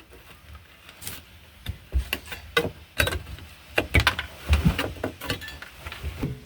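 Irregular knocks, clicks and short scraping strokes of a hand scraper working on the car's bare metal floor, chipping old material off the panel.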